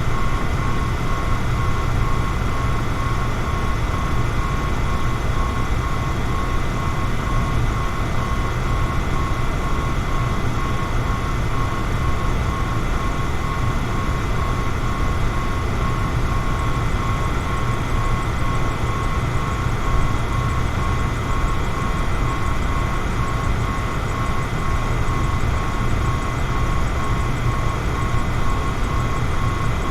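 Electric fan running steadily: an even rush of air with a low hum and a thin, steady tone above it, unchanging throughout.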